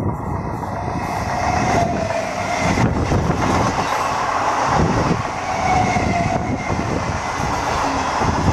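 Electric multiple unit (EMU) local train passing close by: a loud, steady rumble and clatter of its wheels on the rails.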